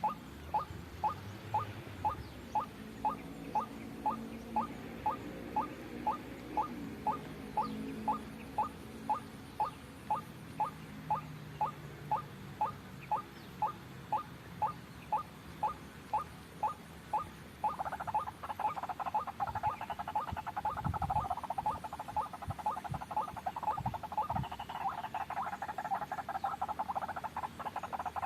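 White-breasted waterhen calls: a steady run of short rising notes, about two a second. About two-thirds of the way through this gives way to a dense, continuous chattering that runs on.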